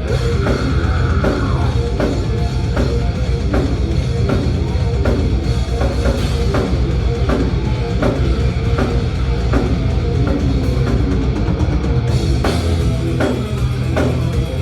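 Thrash metal band playing live, with loud distorted guitars and bass over steady, driving drum-kit hits and no vocals.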